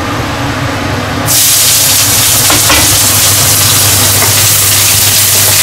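Chopped scallions sizzling in hot oil in a wok: a loud, steady sizzle that starts suddenly about a second in, with a few faint knocks.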